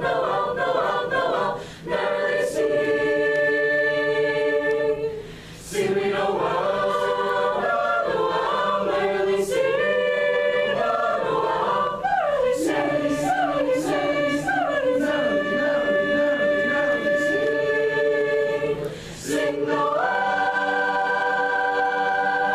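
High school madrigal choir singing a cappella in several parts, in phrases with brief breaks, ending on a long held chord near the end.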